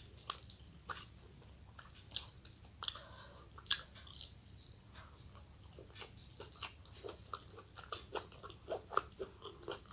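A person chewing a mouthful of food close to the microphone, with faint scattered mouth clicks that come quicker and more steadily in the last few seconds.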